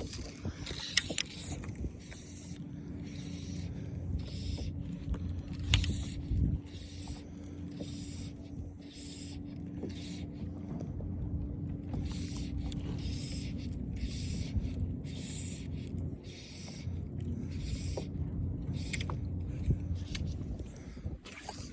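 A kayak moving on water, with short swishes repeating about one and a half times a second over a steady low hum.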